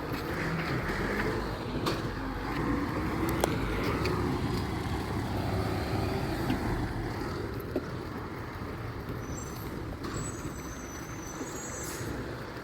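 Garbage truck engine running steadily, with a few light knocks.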